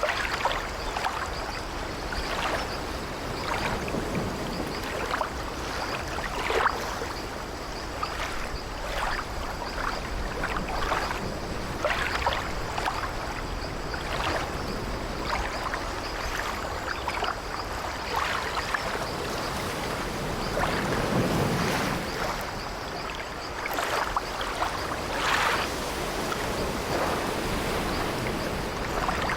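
Sea waves washing steadily against an old wooden sailing ship, with many short splashes and the creaking of the ship's wooden timbers and deck.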